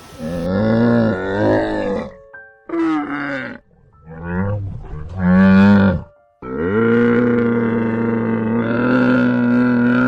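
A large animal calling: a few short, low, rising-and-falling cries, then one long call held at a steady low pitch through the second half.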